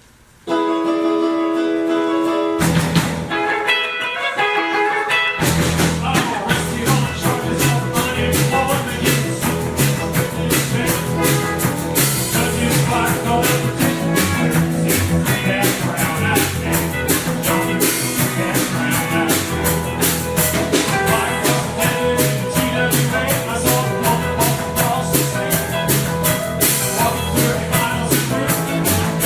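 A rock and roll band playing an up-tempo blues-rock song. It opens about half a second in with guitar alone, and the full band with drum kit comes in about five seconds in, keeping a steady beat.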